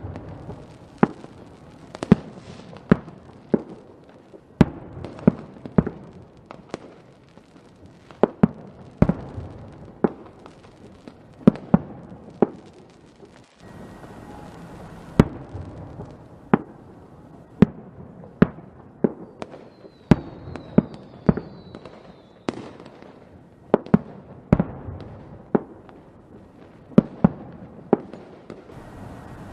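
Fireworks going off: a long string of sharp bangs, irregular, one or two a second, over a steady crackle, with a few brief descending whistles about two-thirds of the way through.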